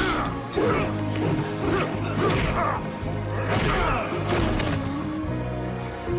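Dramatic orchestral score music for a fight, with several hard punch and crash impact sound effects hitting over it.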